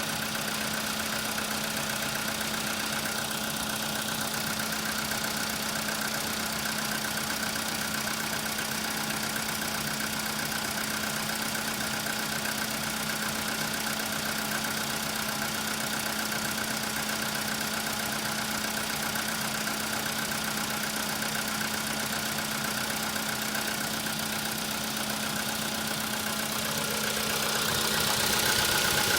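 Car engine idling cold with a steady knock, the knock that shows up while the engine is cold. The sound gets louder near the end.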